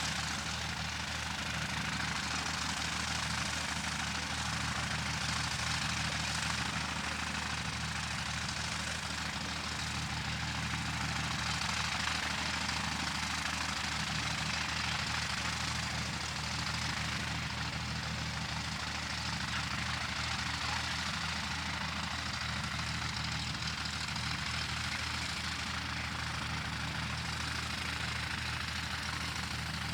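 An engine running steadily, a constant low drone with a rushing noise over it that barely rises or falls.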